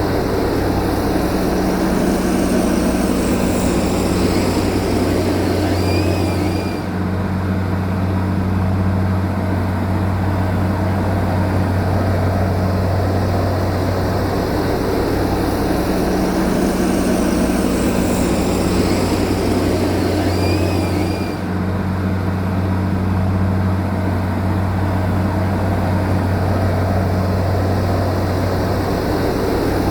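Steady heavy-machinery engine drone with a deep hum. The same stretch of sound repeats about every fourteen and a half seconds, with a short dip in level each time it starts over.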